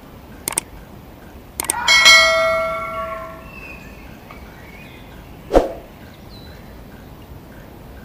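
Subscribe-button animation sound effects: two quick mouse clicks, then a bright bell ding that rings on for about a second and a half, and another click later on.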